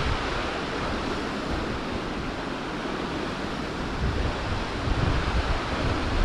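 Steady rushing noise of wind over the moving river, with wind buffeting the microphone in low rumbling gusts that pick up about two-thirds of the way through.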